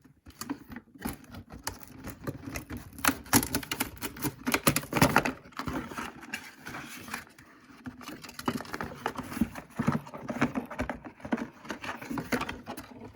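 Rustling, clicking and tapping of hands handling a small plastic remote control and its packaging, in many irregular, uneven bursts that are loudest a few seconds in.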